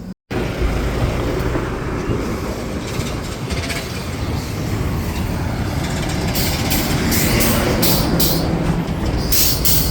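Steady low rumble and rattle of a heavy vehicle. From about two-thirds of the way in, it is joined by a series of short, sharp hisses of air.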